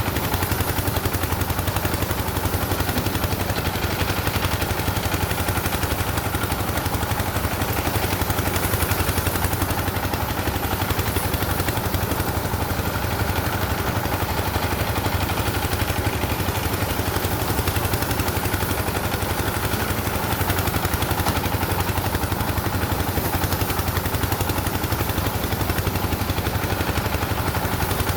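Engine running steadily at a constant speed, a rapid even train of firing pulses with no change in pace.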